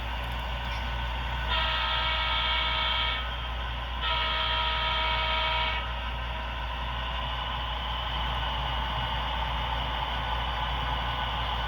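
Model diesel locomotive's sound-decoder horn on an HO-scale layout, blown twice in blasts of about a second and a half each, over a steady hum.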